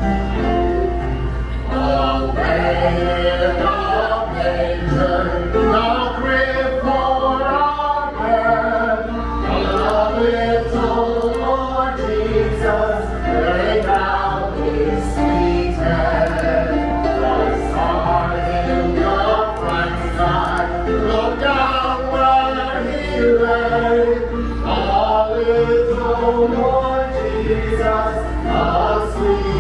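A group of voices singing a song together in harmony.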